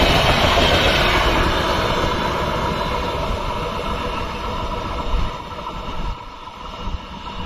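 Passenger train coaches rolling along the rails as the train recedes, the rumble fading steadily into the distance.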